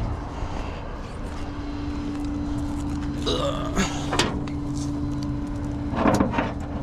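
Tow truck engine idling with a steady hum, and a few metal clanks of tow chains and hooks being unhooked around the middle.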